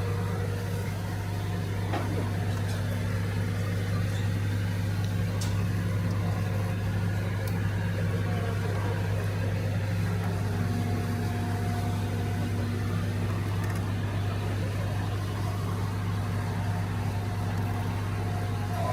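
A motor vehicle's engine running steadily, a constant low drone with no change in speed, with a few faint clicks over it.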